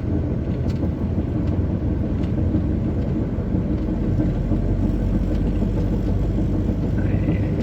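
Heavy truck's diesel engine pulling hard at low speed up a climb, a steady low drone heard from inside the cab.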